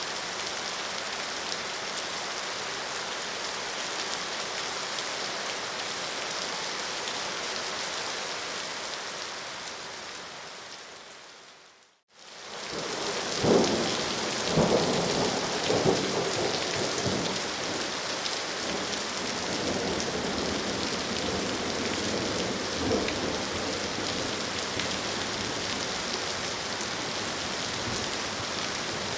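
Steady rain that fades out to silence about twelve seconds in, then fades back in as a thunderstorm, with several rumbles of thunder soon after it returns and another near the end.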